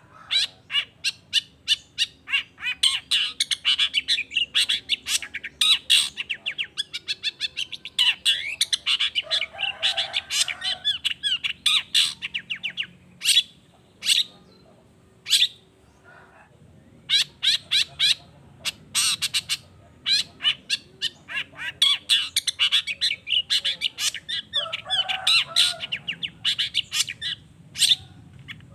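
Long-tailed shrike singing a rapid, chattering song of sharp, varied notes, breaking off about halfway into a few scattered single notes before the fast run starts again.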